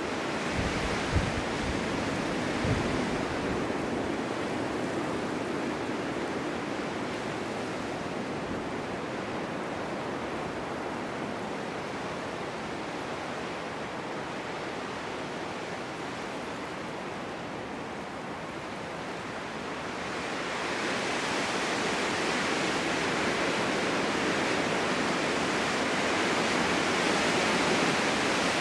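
Snowstorm wind blowing in a steady rush, with a few low thumps near the start. It eases a little, then rises into a stronger, hissier gust about two-thirds of the way through.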